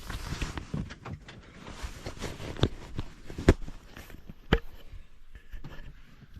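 Scattered clinks and knocks of hand tools and metal parts, with rustling, from work on a vehicle's shock-absorber mount. Three sharper knocks fall in the middle.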